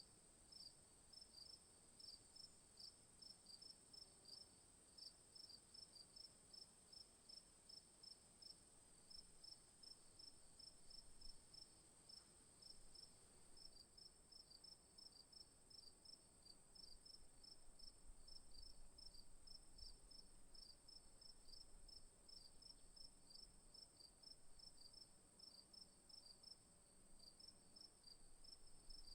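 Faint insects chirping: a steady high-pitched whine under a rapid, even run of short chirps, several a second.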